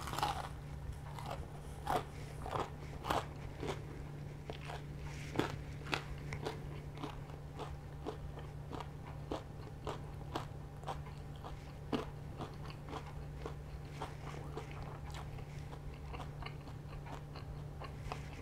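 Close-miked biting and chewing of crispy fried chicken: irregular crisp crunches every half second to a second, over a low steady hum.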